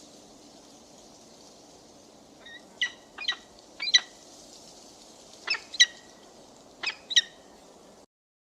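A bird of prey giving short, sharp, high calls, mostly in quick pairs, with a few seconds between groups, over a faint steady hiss. The sound cuts off abruptly near the end.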